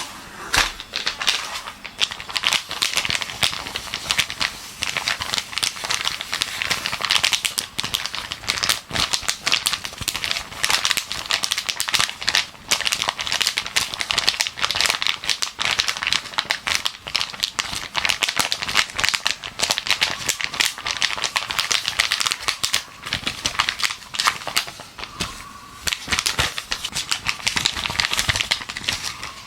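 Gloves rubbed and crinkled close to the microphone, giving a dense, continuous run of crackling, crinkling rustles, with birdsong in the background.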